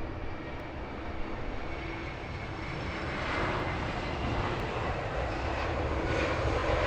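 Jet airliner's engines heard as a steady rushing rumble, growing gradually louder from about halfway through as the aircraft nears.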